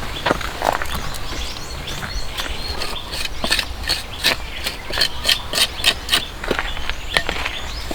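A rapid run of sharp clicks and knocks, about three or four a second through the middle, over a steady low background.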